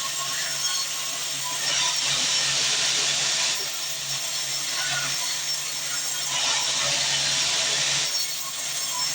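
Sawmill band saw running with a steady hum, its blade cutting through wood in two passes of about two seconds each, with quieter running between the cuts.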